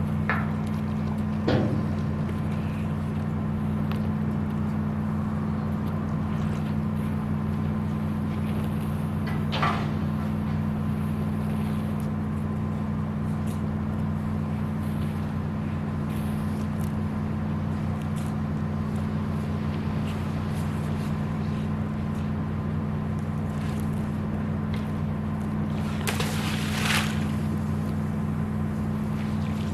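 A cargo ship's engine running with a steady, even low hum. A few brief higher-pitched sounds rise over it, the longest about a second long near the end.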